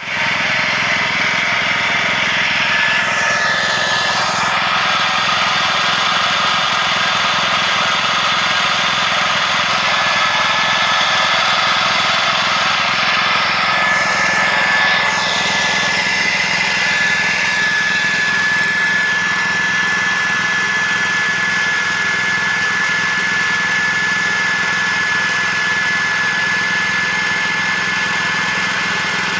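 A machine running steadily, with a thin high whine that joins about three seconds in and holds.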